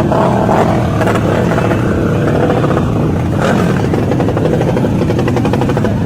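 Motorbike engines running in a loud, steady drone, with rapid firing pulses throughout.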